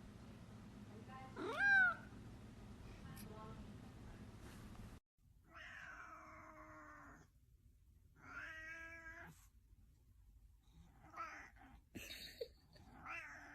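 A domestic cat meowing: one short, rising-then-falling call about two seconds in, then several longer meows spaced a couple of seconds apart.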